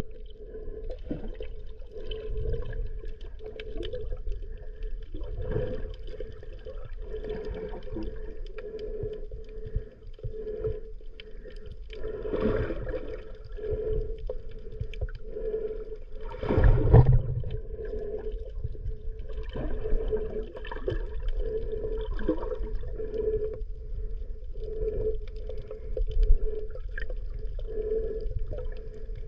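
Underwater sound: muffled water movement and a low rumble, with a hum that swells about once a second and scattered small clicks. A louder rumble comes a little past halfway.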